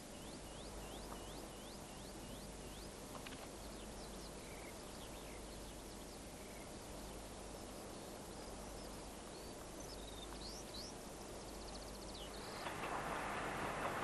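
Faint bird chirps over a quiet outdoor background: a quick run of about ten repeated chirps in the first three seconds, then scattered higher calls. About a second and a half before the end, the rumble of a passing train rises.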